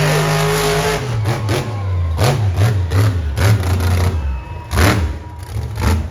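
Monster truck engine dropping off a high rev, then blipping unevenly, with a string of sharp cracks, the loudest about five seconds in.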